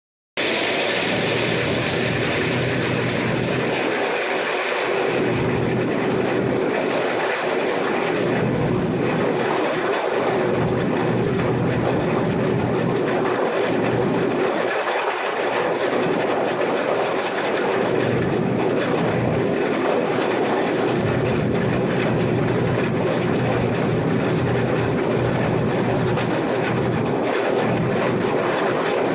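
Case IH 2388 combine running steadily while cutting wheat: a constant mechanical drone of engine and threshing machinery with a steady hum running through it.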